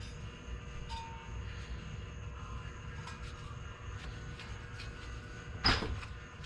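Hand tools working a brake caliper slider pin loose: a few faint clicks and one sharp knock about five and a half seconds in, over a steady low rumble.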